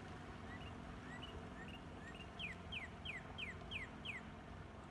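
A songbird singing: a few short rising two-note phrases, then a run of six quick falling slurs, about three a second. Underneath runs the faint steady hum of a distant Honda outboard motor.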